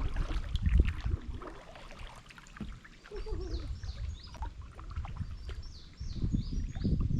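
Uneven low rumbling of wind and water noise on the microphone during a river kayak trip. A bird calls a run of short, falling high notes in the middle.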